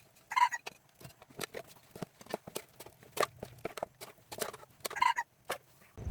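An irregular series of short, sharp clicks and knocks, several a second, with a few louder bursts near the start and toward the end.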